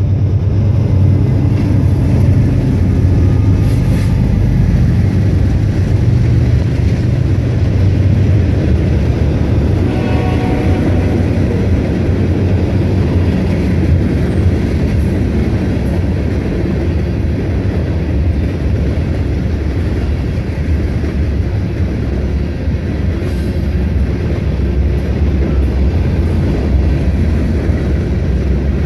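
A train passing close by, a steady heavy rumble of the locomotive and rolling cars throughout. A brief horn blast sounds about ten seconds in.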